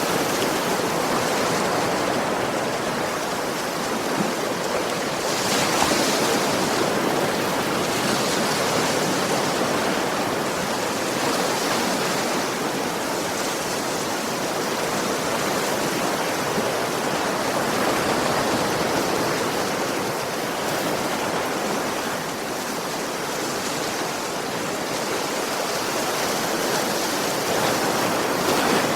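Sea waves breaking and washing on a beach: a continuous surf wash that swells every several seconds as waves break.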